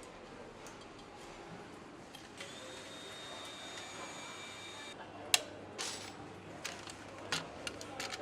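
Assembly-plant machinery over a steady background hum: a high, steady machine whine lasting about two and a half seconds, then a series of sharp metallic clicks and knocks. The loudest knock comes about five seconds in.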